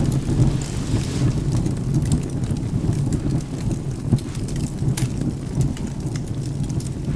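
Rain with a steady low rumble of thunder, and the sharp pops of a wood fire crackling scattered throughout.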